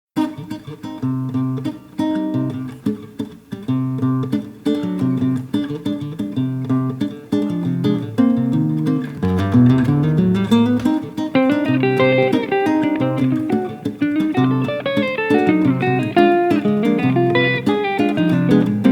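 Guitar playing a steady choro accompaniment of rhythmic chords over a bass line, with a rising bass run about halfway through.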